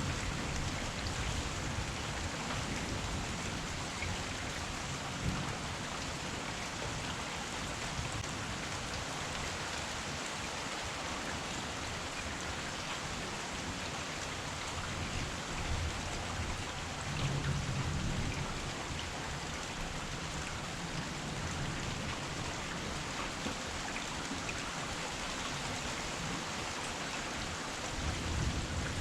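Heavy rain falling steadily in an even hiss, with low rumbles of thunder swelling about halfway through and again near the end.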